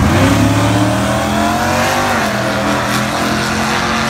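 1937 coupe drag car's inline-six engine accelerating hard down the strip. Its pitch climbs for about two seconds, dips briefly at a gear change, then holds and climbs again.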